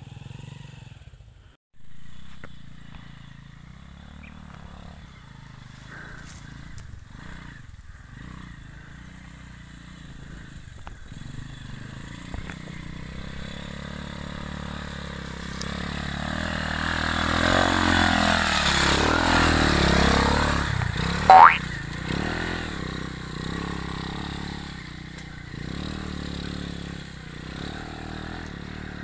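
Pit bike engine approaching along a dirt trail, growing louder, passing close with its pitch sweeping and dropping, then fading away. As it passes there is a brief, sharp rise in pitch and a loud peak.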